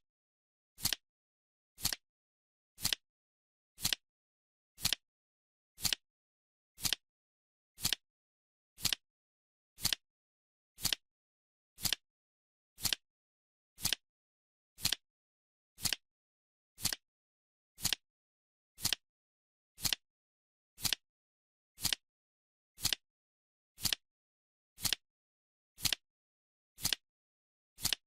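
Timer ticking once a second: a sharp, even click on every second, with silence between the ticks.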